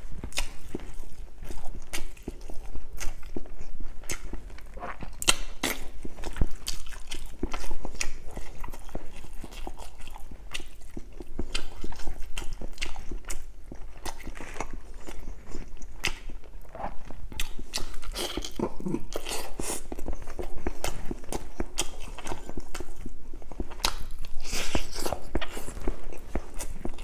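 Close-miked chewing and biting of lechon manok (roasted chicken) and rice: irregular wet mouth sounds with many short, sharp clicks.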